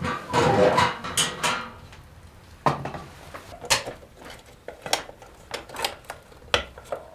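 Metal cookware and utensils clattering and knocking together: a burst of clatter in the first second, then single sharp knocks about once a second.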